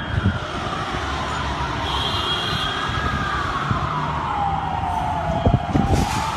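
Emergency vehicle siren wailing, slowly rising and falling over several seconds, over a low rumbling background. A brief high steady tone sounds about two seconds in, and there are a few knocks near the end.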